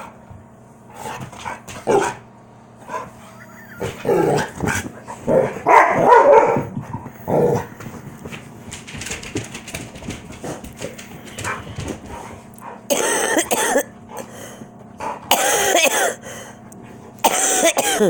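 Two dogs play-fighting, growling and barking in irregular bursts, with three loud drawn-out barks of about a second each in the last five seconds.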